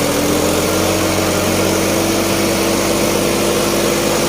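Sonalika DI 50 tractor's diesel engine running steadily under heavy load as it slowly pulls a fully loaded trolley, its pitch rising slightly.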